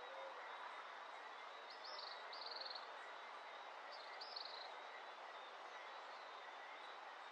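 A faint, steady outdoor hiss of dawn ambience, with a small bird giving short, high, trilled calls twice, about two seconds in and again about four seconds in.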